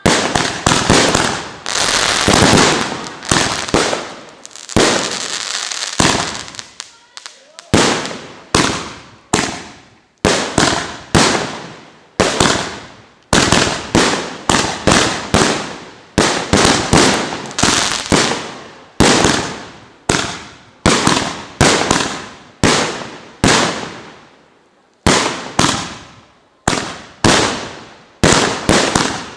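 Fireworks display: aerial shells bursting one after another, roughly one bang a second, each followed by a fading crackle and echo. A dense run of overlapping bursts and crackling comes near the start, with a brief lull shortly before the end.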